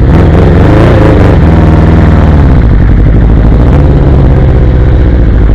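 Motorcycle engine running loudly. Its pitch rises over the first second, drops back about two seconds in, then holds fairly steady.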